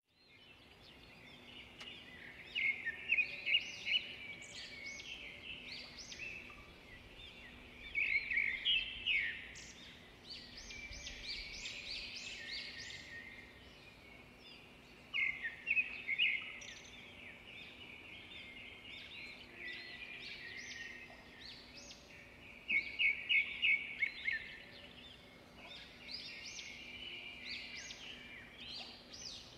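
Small birds chirping in bouts of quick, high repeated chirps, with a faint steady hum underneath.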